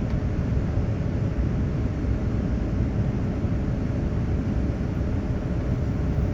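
Steady cabin noise of a Boeing 787 airliner: an even low rumble of engines and airflow with a faint steady hum on top.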